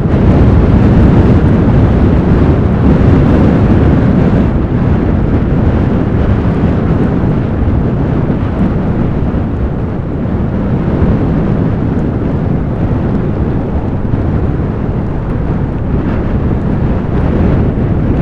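Strong blizzard wind blowing, a loud steady rush of low noise that eases a little about halfway through.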